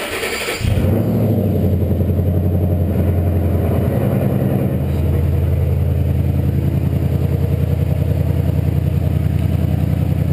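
2013 Mustang GT's 5.0 V8 starting up on fresh oil: a brief crank, the engine catches within a second and runs at a fast idle, then the idle steps down about five seconds in and holds steady.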